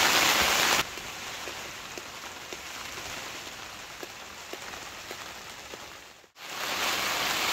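Steady rain on a tent's fabric heard from inside, with scattered single drop taps, in a tent that is leaking. The sound is louder for the first second, dips out briefly about six seconds in, and comes back louder.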